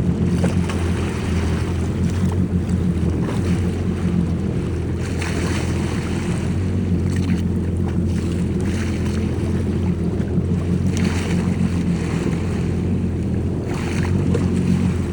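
Jet ski engine running steadily on the water, a low drone, with rushes of wind and water hiss rising and falling every second or two.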